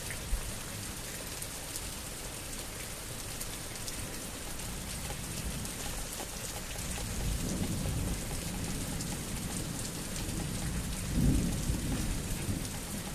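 Steady rain falling during a thunderstorm, with thunder rumbling low, building about seven seconds in and swelling again around eleven seconds.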